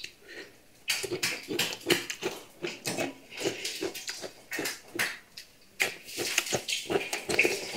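Close-miked crunching and wet chewing of raw cucumber slices with lip smacking, starting about a second in as an irregular run of crisp crunches.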